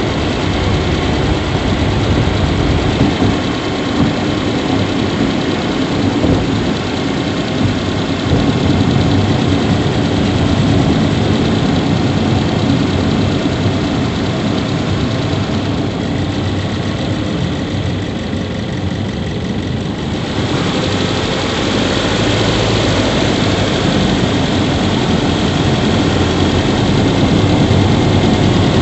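Subaru Levorg 1.6GT-S's 1.6-litre turbocharged flat-four engine idling steadily. The upper hiss drops away for a few seconds past the middle and comes back suddenly.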